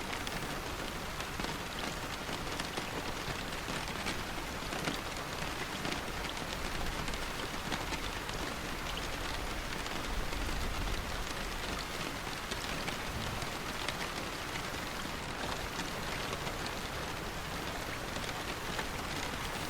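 Steady rain falling, with many small drops ticking through the hiss. There is a brief low rumble about halfway through.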